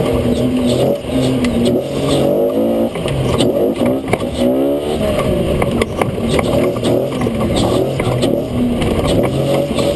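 Offroad-modified Toyota FJ40's engine, heard from inside the cab, running hard through the dirt course. Its pitch rises and falls several times in the middle as it revs up and down, with frequent short knocks and rattles over it.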